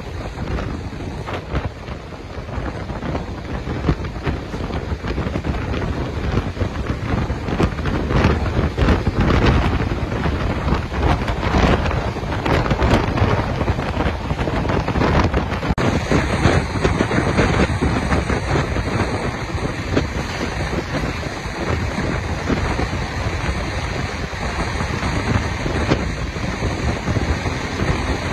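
Running noise of an express train at speed heard from an open coach door: steady rumble of wheels on rails with heavy wind buffeting the microphone. In the opening seconds an electric locomotive on the next track passes close by.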